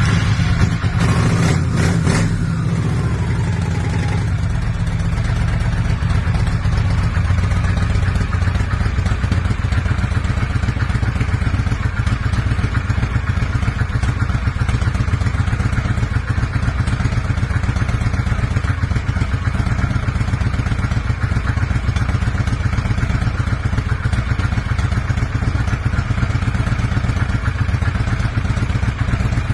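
1998 Honda Shadow VT1100C2's 1100 cc V-twin running right after a cold start without choke. It runs a little faster for the first few seconds, its pitch falling, then settles into a steady idle.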